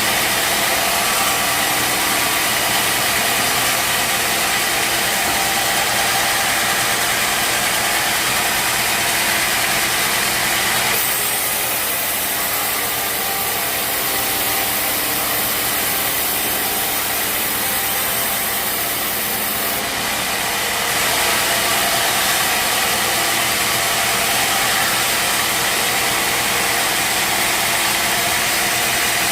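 Bandsaw sawmill running steadily, an engine hum under a dense hiss of the blade in teak. The sound changes about eleven seconds in and shifts back near twenty seconds.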